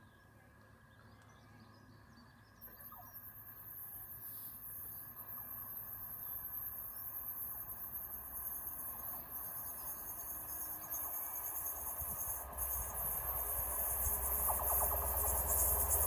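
Approaching train, a class 67 diesel locomotive hauling a class 91 electric on a diversion 'drag'. A high hiss from the rails starts suddenly about two and a half seconds in and grows steadily louder, and a low rumble from the train joins about three quarters of the way through.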